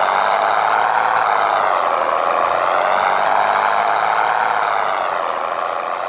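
Scania 113 truck's inline-six diesel engine running under load as the truck pulls away. The engine note rises, dips about two seconds in, climbs again and falls off near the end.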